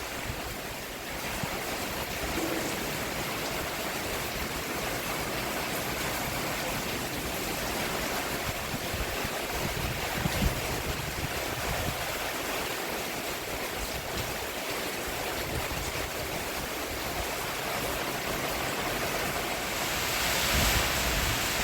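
Steady rain falling on a roof, an even hiss with occasional soft low thuds of heavier drops.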